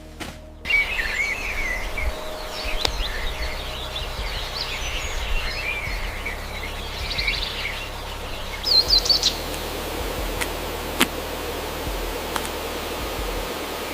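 Forest ambience: several birds chirping and calling in short phrases that glide up and down, over a steady background hiss. A burst of higher chirps comes about nine seconds in, and a few sharp clicks follow.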